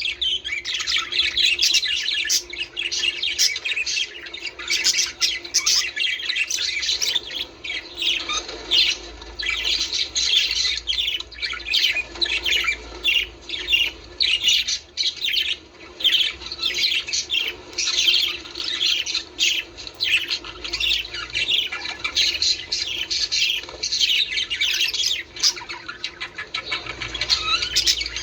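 Budgerigars chattering, a dense unbroken stream of short, quick chirps and squawks.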